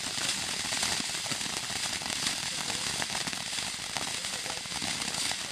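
Shower (fountain) firework burning steadily: a continuous hissing spray of sparks with dense fine crackling.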